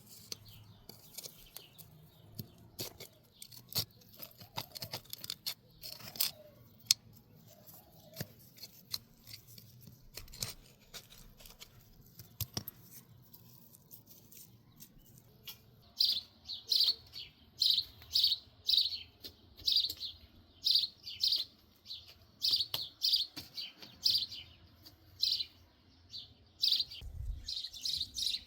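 Scattered sharp clicks and taps, then from a little past halfway a bird chirping repeatedly, about two high chirps a second.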